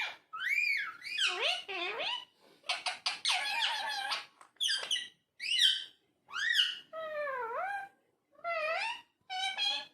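Indian ringneck parakeet calling and chattering: a run of about nine short pitched calls, some rising and some falling in pitch, with brief pauses between them.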